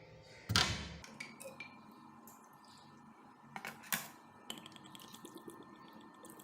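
Workshop handling noises from the rusty adze being worked on: a heavy knock about half a second in that rings briefly, then scattered light clicks and taps, with two sharper knocks close together near four seconds.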